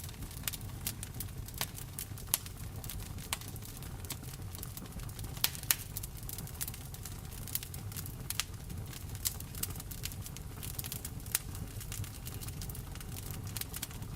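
Wood fire crackling in a fireplace: irregular sharp pops and snaps, two of the loudest close together about five and a half seconds in, over a steady low rumble.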